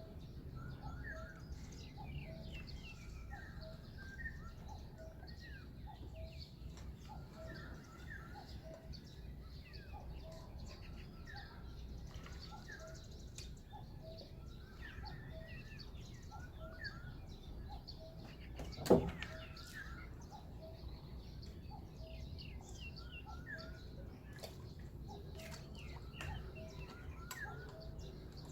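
Several birds chirping and calling at dawn by a pond, one repeating a short call about once a second, over a low steady outdoor hum. About two-thirds of the way through, a single sudden loud thump or splash stands out.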